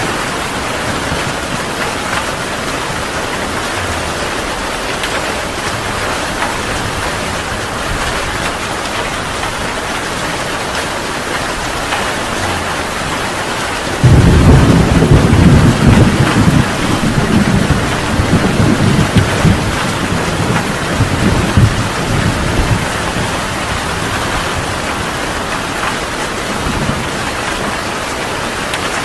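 Heavy rain falling steadily. About halfway through a sudden loud clap of thunder breaks in and rumbles on in uneven rolls for several seconds before fading back under the rain.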